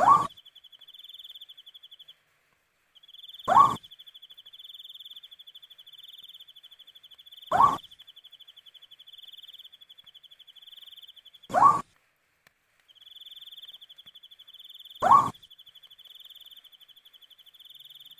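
An owl calling: five short, single upward-inflected hoots, one every three and a half to four seconds. Behind them is a steady pulsing chorus of crickets, which drops out briefly twice.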